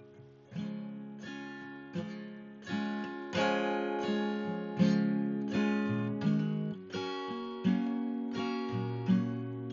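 Background music: an acoustic guitar strumming chords about once a second, each chord left to ring and fade before the next.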